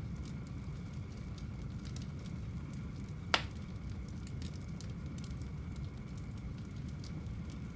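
Fire burning in a home fireplace: a steady low rumble of flames with scattered small crackles, and one sharp loud pop about a third of the way in.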